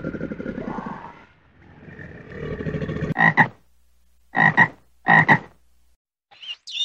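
A low, rough rumbling through the first couple of seconds, then a toad croaking three times, each croak a quick double pulse, a little over a second apart.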